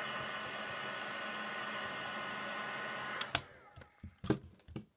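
Heat gun running with a steady fan noise and a faint whine, switched off with a click a little over three seconds in, followed by a few light knocks.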